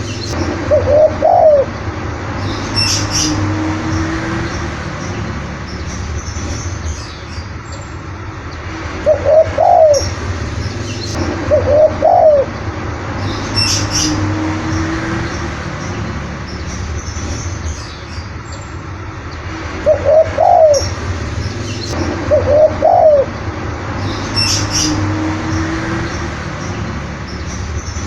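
Spotted dove (tekukur) singing its cooing song three times, about every ten seconds: two rising-and-falling coos, then a lower drawn-out note. Short high chirps come in a few times as well.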